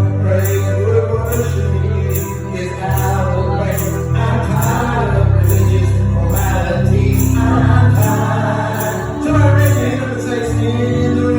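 Gospel praise song performed by a church praise team: singers over a heavy bass line, with a jingling percussion beat about twice a second.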